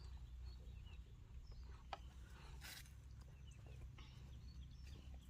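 Near silence: faint, scattered small bird chirps over a low steady hum, with one sharp click about two seconds in and a brief hiss just after.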